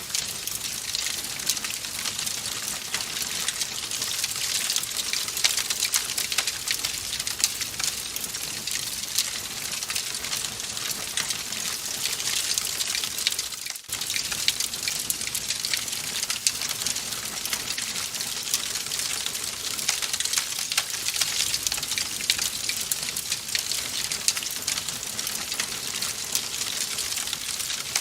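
Wood fire crackling in a fireplace: a dense, steady stream of small pops and snaps over a soft hiss, with a brief dip in level about halfway through.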